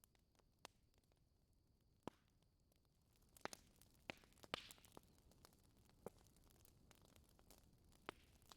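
Wood fire in a fireplace crackling faintly, with scattered sharp pops and a brief cluster of louder pops and a short hiss near the middle.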